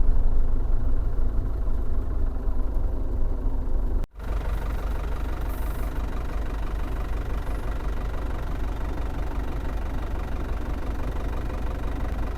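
Diesel engine of an Iveco bus-conversion caravan running steadily. It breaks off abruptly about four seconds in, then resumes slightly quieter and even.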